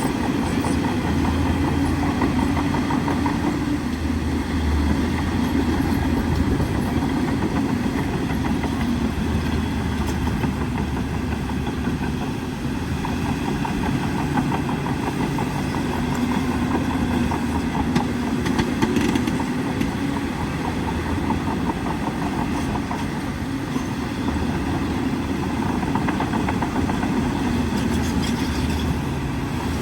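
A bulldozer's diesel engine running steadily, its note swelling and easing a little now and then.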